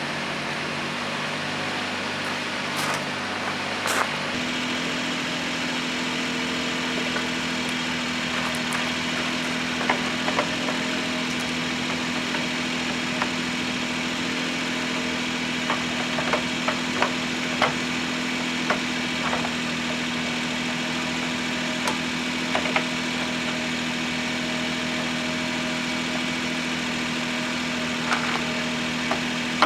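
Engine idling steadily; about four seconds in its hum shifts to a higher steady pitch, with scattered light clicks and knocks over it.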